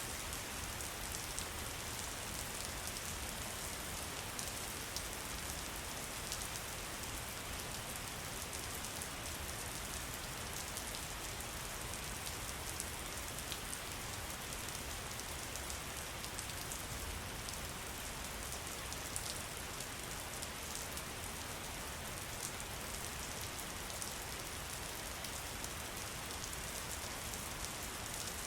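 Steady rain falling, with a dense scatter of fine drop ticks over an even rush of water.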